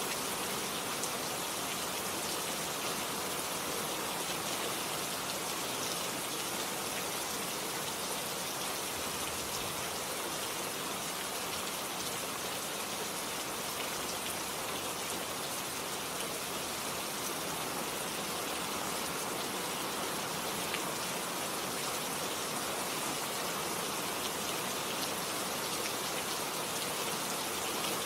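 Steady rain, an even hiss of falling drops with no let-up and no thunder.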